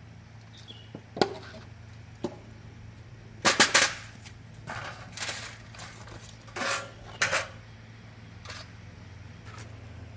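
Metal tools and parts clinking and clanking against each other in irregular, separate knocks, loudest a little after three seconds in and again around seven seconds in, over a steady low hum.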